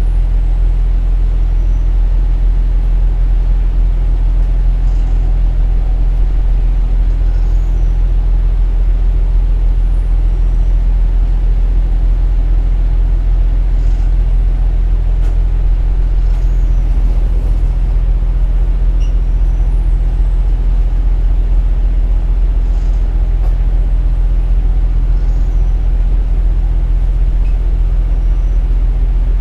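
KiHa 47 diesel railcar running with a steady, unchanging engine drone and rolling noise.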